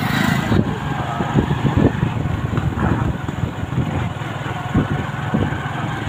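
Motorcycle running along a road at riding speed, heard from the rider's seat: a steady low engine and road rumble.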